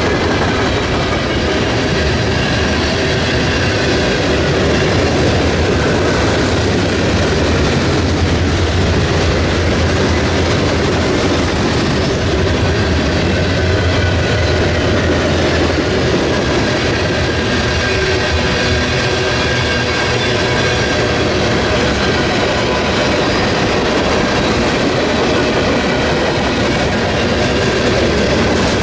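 A freight train's cars rolling past at close range, a steady rumble with steel wheels clattering over the rail joints.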